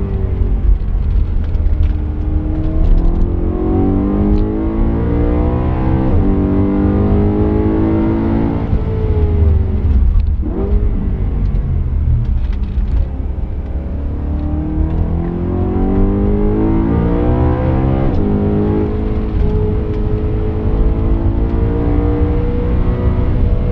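BMW M3 E92's V8 engine heard from inside the cabin at full track pace. Its pitch climbs and falls with the revs, drops away about ten seconds in as the car slows, then climbs again, with a brief dip at a gear change later on. Heavy road and wind rumble runs underneath.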